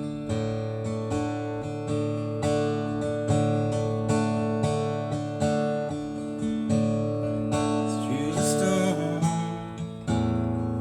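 Acoustic guitar strummed in a steady rhythm, with no singing. A sliding note falls in pitch about eight seconds in.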